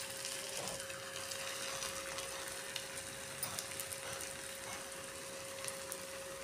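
Potato and wheat-flour cutlets shallow-frying in oil in a pan: a steady sizzling hiss with small scattered crackles, over a faint steady hum.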